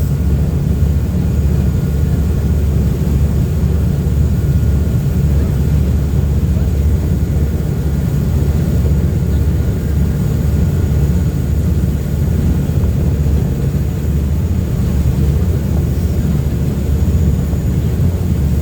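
Uber Boat river-bus engines running at cruising speed, a steady low rumble mixed with the rush of water and wind.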